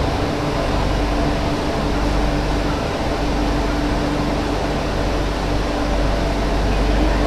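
Steady interior noise of an MTR Tsuen Wan line Q-train carriage in motion: a low rumble and hiss with a steady hum.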